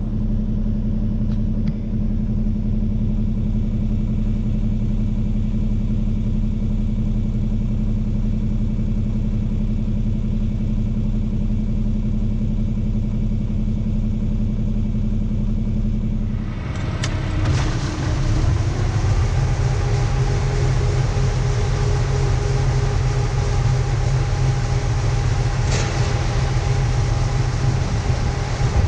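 Farm machinery engine running steadily. About two-thirds of the way through, the sound changes abruptly to a different, noisier machine sound with a higher hiss over the engine.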